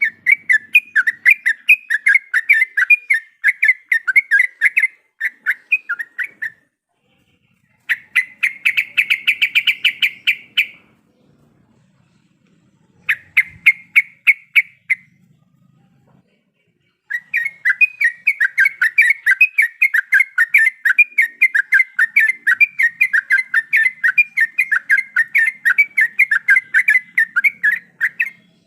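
Yellow-vented bulbul (trucuk) singing in bouts of fast, chattering notes separated by short pauses. A quick, dense trill comes about eight seconds in, and the last ten seconds hold one long unbroken run of chatter.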